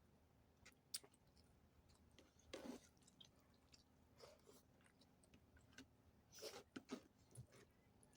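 Faint chewing and mouth sounds of a person eating: scattered short clicks and a few brief wet smacks, the clearest about a second in, near the middle and toward the end.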